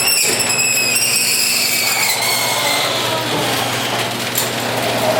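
Garage door closing under its opener, a steady motor hum with a loud metallic squeal that slides down in pitch over the first few seconds. The noise is blamed on corkscrewed torsion springs rubbing tightly against the torsion tube.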